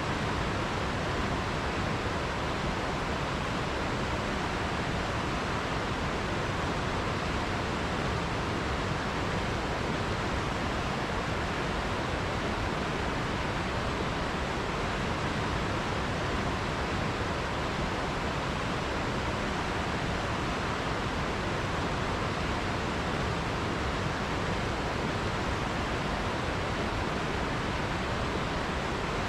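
River water rushing and flowing steadily, an even unbroken wash of noise with no individual splashes standing out.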